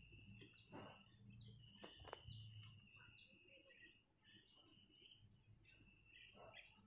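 Near silence with birds chirping faintly in the background, about two to three short chirps a second, over a low steady hum.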